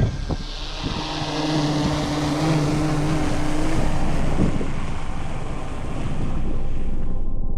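Wind rushing over the microphone, with a steady low hum that comes in about a second in and stops about three seconds later.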